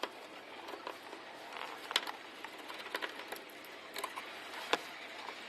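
Scattered light clicks and knocks of hands and tools taking apart the cover around a car's ignition lock cylinder, the sharpest about two seconds in and again near the end.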